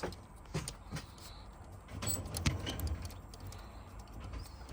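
A few sharp clicks and light knocks of ignition coil packs and their plastic connectors being pushed back onto the engine by hand, spaced out over a few seconds.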